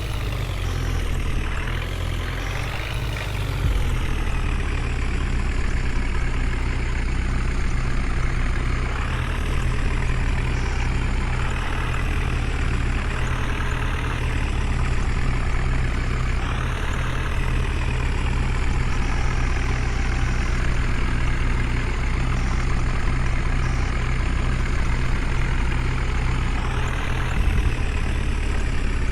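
Heavy diesel engine running steadily, with a few brief revs.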